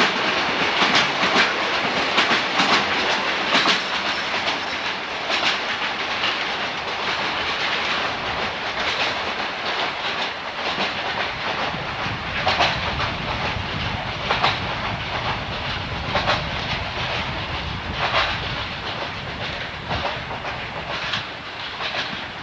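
Train wheels clattering over rail joints over a steady rolling rumble. The clacks are close together at first, then spread out to about one every two seconds and grow fainter toward the end.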